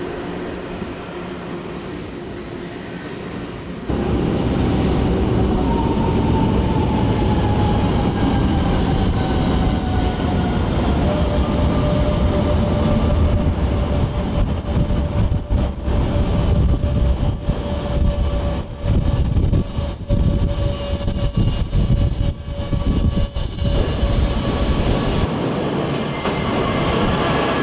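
Electric multiple-unit trains crossing the steel truss bridge. About four seconds in, a red S-Bahn train passing close takes over, with a loud rumble of wheels on the bridge and a motor whine that falls in pitch and then holds steady. Near the end the rumble drops away as a National Express Talent 2 electric train approaches.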